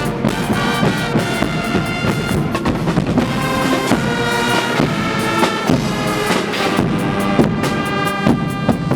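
Guggenmusik band playing loud brass over a steady beat of bass drum and drum kit.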